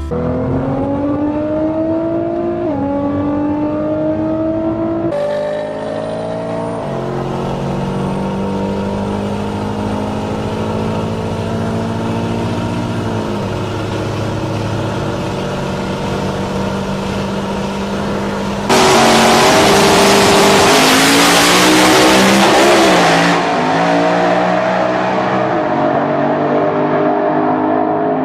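Car engine accelerating hard through the gears, its pitch climbing and dropping at two quick upshifts, then pulling steadily. Later a loud rushing noise rises over it for about four seconds before the engine note returns.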